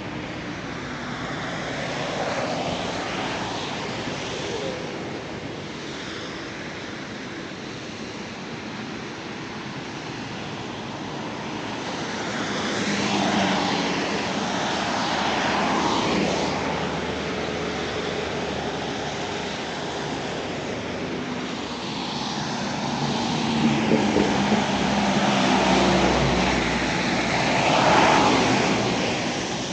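Road traffic passing: several motor vehicles go by one after another, their engine and tyre noise swelling and fading, loudest a little under halfway through and again near the end.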